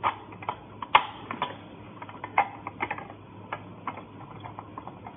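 Irregular clicks and light knocks of a manual meat grinder's parts being handled, as a cookie-shaper disc is chosen and fitted; the loudest knock comes about a second in.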